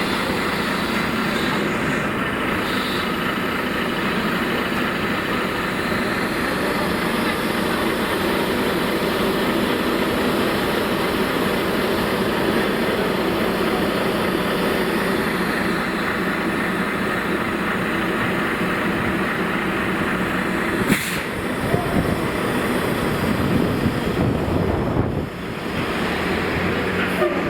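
Steady road and traffic noise, with one sharp knock about three-quarters of the way through.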